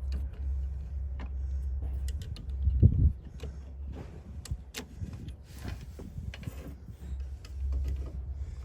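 Scattered light clicks and ticks of small metal lock parts being handled and fitted back into a van door lock, over a steady low hum, with one heavier thump about three seconds in.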